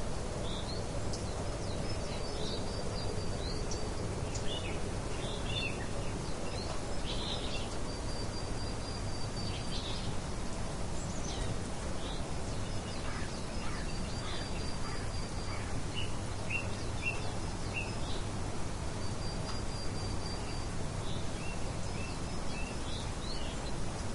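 Steady rushing of light wind with small birds chirping and twittering throughout, short high chirps mixed with a few brief held whistled notes.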